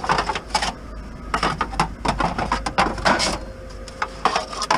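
Junk being handled and shifted: an irregular run of knocks, clanks and rattles as items are pulled from a curbside pile.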